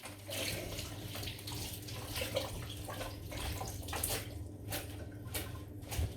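Kitchen tap running while romaine lettuce leaves are rinsed under it, the water splashing unevenly over the leaves.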